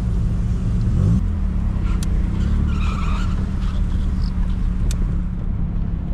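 Car engine running with a steady low drone, its pitch rising briefly about a second in.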